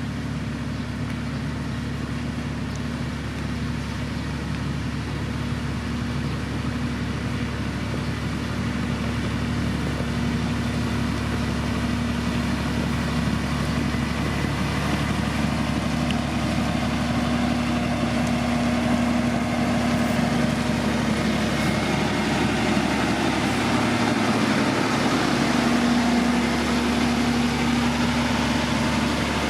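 Diesel engine of a heavy road-building machine running steadily, gradually getting louder.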